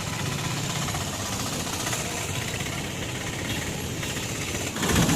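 Motorcycle engine running steadily with a fast, even pulsing, heard while riding, with the sound changing abruptly and getting louder just before the end.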